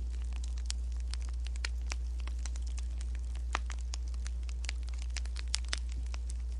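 Wood fire crackling: irregular small pops and snaps, a few louder ones about three and a half and five and a half seconds in, over a steady low hum.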